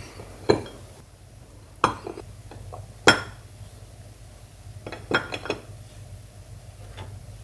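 Dishes and metal utensils clinking and knocking against each other in a handful of separate clinks. The loudest comes about three seconds in, with a quick run of clinks around five seconds.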